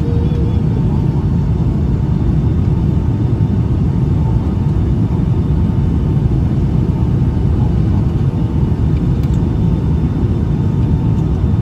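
Steady low rumble inside the economy cabin of a Boeing 757-200 with Pratt & Whitney PW2000 engines, with a faint steady tone above it.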